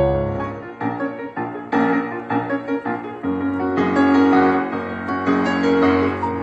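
Background piano music, a gentle melody of single and chorded notes.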